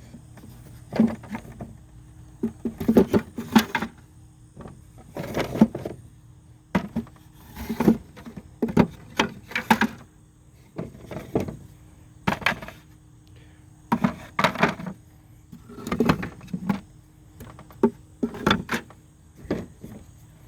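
Wooden beehive parts knocking and clattering as they are handled and set in place, in irregular knocks about every second or two.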